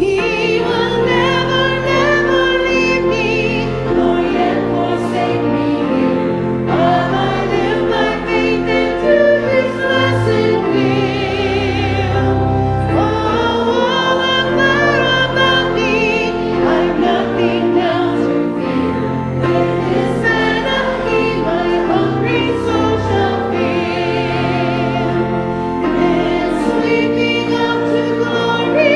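Church adult choir singing a gospel hymn with vibrato over a sustained instrumental accompaniment.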